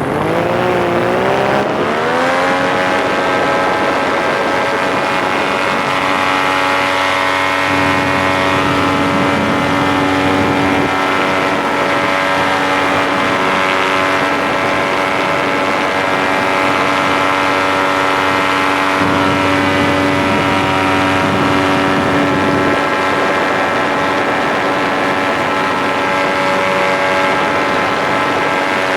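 Paramotor engine and propeller running under power: the pitch climbs over the first couple of seconds as the throttle opens, then holds a steady high note.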